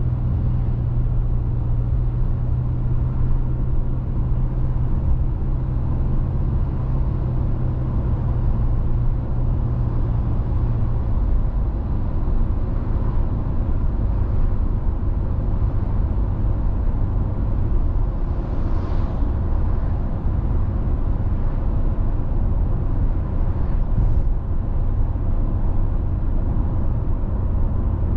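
Car driving on a road: steady low rumble of tyres and engine, heard from inside the car. A low steady hum drops slightly in pitch about a third of the way through.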